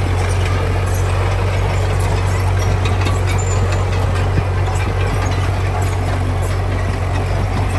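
Heavy diesel engine of construction machinery running steadily, a constant low hum under a noisy mechanical wash.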